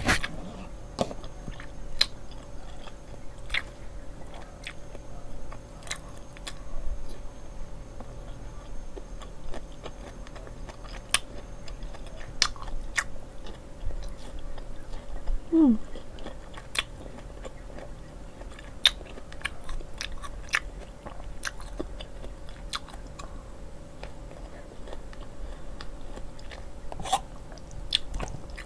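Close-miked chewing and biting of Samyang carbonara ramen noodles and enoki mushrooms, with many short sharp mouth clicks scattered throughout over a faint steady hum. A short falling tone comes about halfway through.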